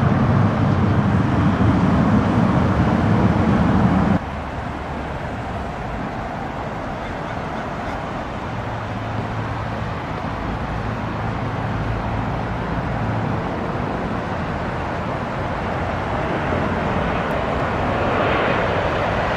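Aircraft engine noise at an airport runway. A loud low rumble cuts off abruptly about four seconds in, leaving a quieter steady noise that slowly grows louder and brighter near the end as another aircraft comes closer.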